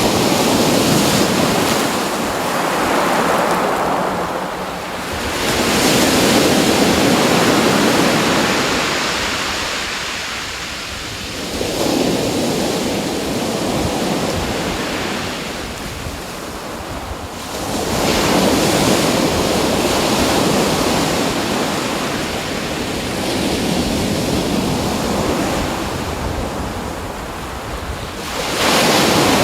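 Ocean waves breaking and washing in, a rushing noise that swells and falls away every several seconds.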